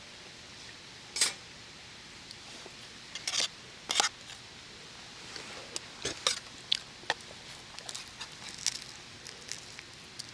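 Camp cookware and eating utensils being handled: scattered light clicks and clinks, the loudest about a second in and about four seconds in, with a quicker run of small clicks a little later.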